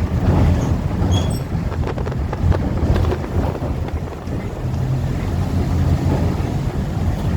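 Wind buffeting the microphone, a heavy uneven low rumble that rises and falls.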